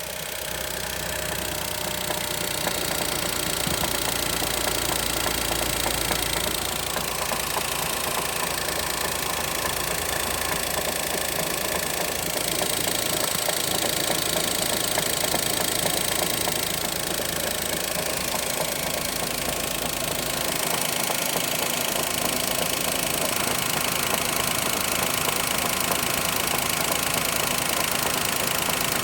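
Daihatsu Mira engine running steadily with a knocking sound from inside the engine.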